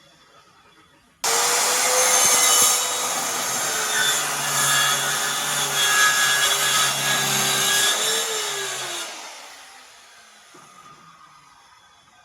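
Electric power tool cutting wood: it starts suddenly, runs loud for about seven seconds with a steady motor tone, then spins down with a falling whine and fades.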